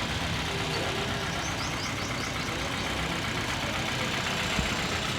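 Toyota XLi's engine idling steadily.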